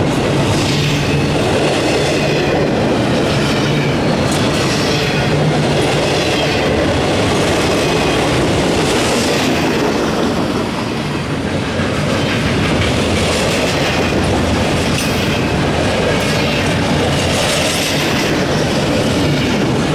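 A CSX double-stack intermodal train's well cars rolling past: a steady loud rumble of steel wheels on rail with recurring clatter as each wheel set goes by.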